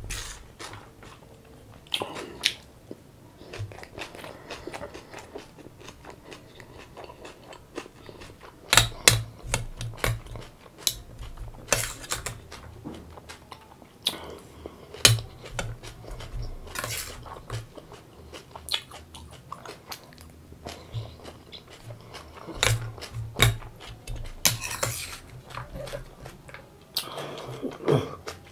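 Close-miked chewing and crunching of a mouthful of sprouts salad, in many short crisp bites, with a spoon clicking against a steel bowl.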